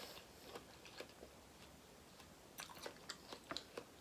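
Faint chewing and small crunching clicks of someone eating seafood close to the microphone, with a run of sharper clicks about two and a half seconds in.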